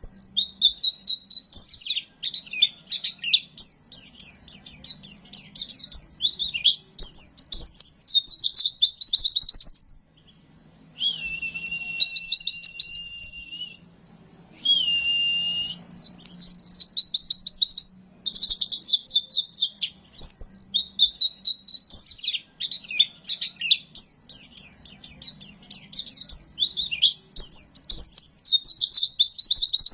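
White-eye (pleci) singing a long, fast, high twittering song in dense runs of rapid notes. There are two short breaks near the middle, where a steady held whistle-like note sounds under the chatter.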